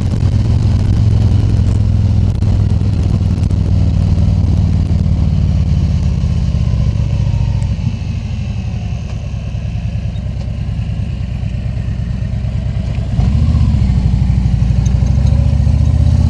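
Harley-Davidson Tri Glide Ultra trike's Milwaukee-Eight V-twin running on the road, with wind noise. It eases off about halfway through, then picks up again with the throttle a few seconds before the end.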